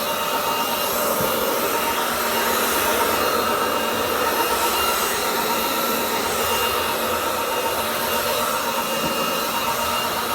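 Roborock Dyad Pro wet-and-dry vacuum running steadily in max mode: a constant rush of suction with a high motor whine.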